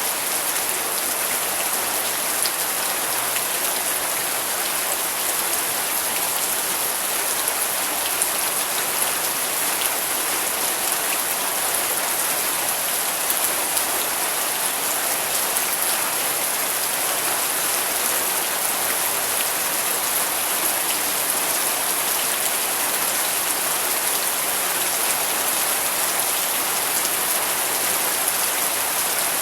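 Steady rain falling, an even hiss with many fine droplet patters.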